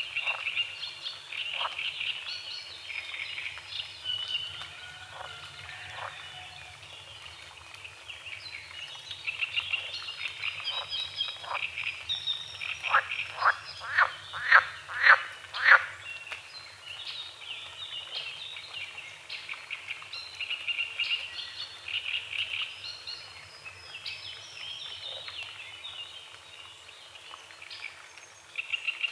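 A chorus of frogs croaking. Around the middle there is a run of about eight loud croaks, roughly two a second, growing louder before they stop.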